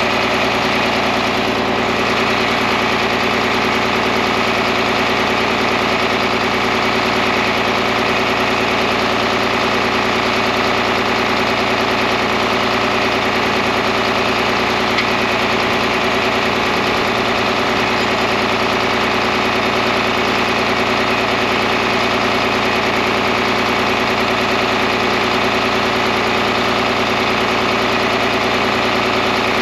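John Deere 4010 tractor's six-cylinder engine running steadily at one constant speed.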